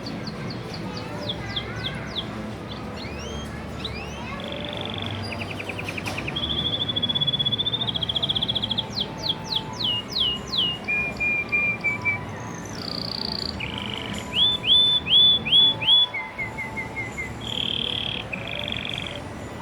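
Domestic canary singing a long, varied song: runs of rapid trills alternating with quick series of falling notes and short buzzing rolls, one phrase after another with hardly a pause.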